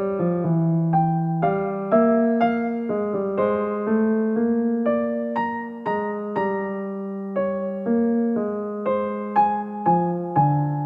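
Background piano music: a slow, gentle melody of struck notes that fade after each stroke.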